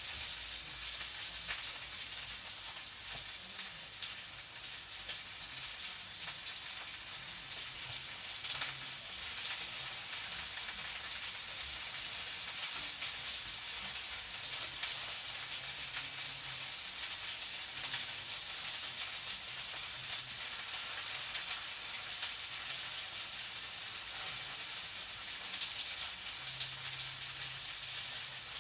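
Food frying in a pan: a steady high sizzling hiss with occasional small pops.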